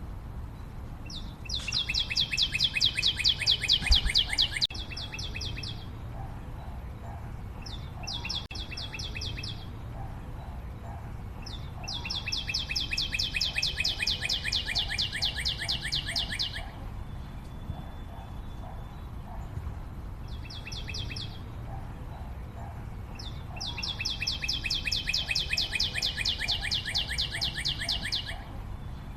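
A bird's fast, high trill, sung in five phrases of one to five seconds, each falling slightly in pitch as it goes. Fainter chirps repeat underneath.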